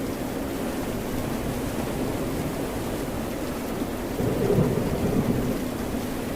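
Steady rain and ocean surf noise, with a louder low rumble rising about four seconds in and fading after a second or so.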